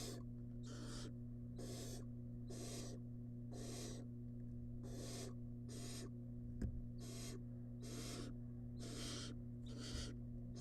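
Barn owl nestling's begging calls: a rhythmic series of rasping hisses, about one and a half a second, the 'snoring' call of a chick asking for food. A steady electrical hum runs underneath, and there is one sharp click about two-thirds of the way through.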